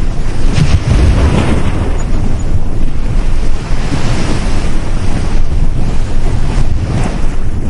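Sea waves breaking and washing up on a beach, a loud, continuous surge that swells and eases every second or two, with wind rumbling on the microphone.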